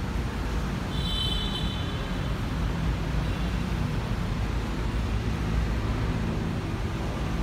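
Diesel engine of a Hyundai 15-ton three-axle dump truck running steadily with a low rumble. A short high-pitched squeal sounds about a second in.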